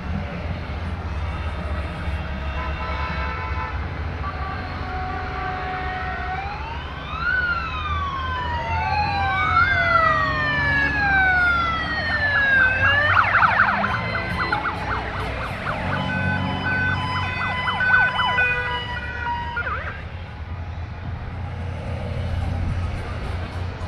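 A steady low rumble of Honda Gold Wing motorcycles passing in a parade. About a quarter of the way in, several sirens wail, rising and falling in pitch and overlapping one another. These give way to steady horn-like tones before fading out a few seconds before the end.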